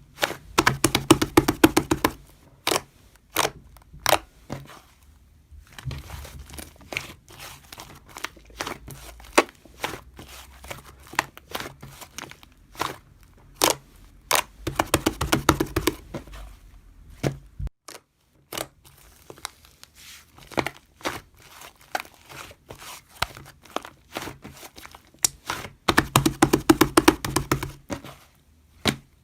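Crinkling and tearing handling sounds with many separate sharp clicks and taps, thickening into three dense stretches of crackling near the start, about halfway and near the end.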